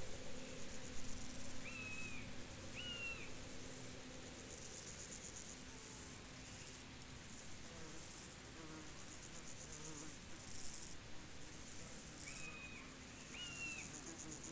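Crickets chirping in high, rapidly pulsed trills that start and stop in bouts of a second or two. A bird gives two short calls about a second and a half in, and two more near the end.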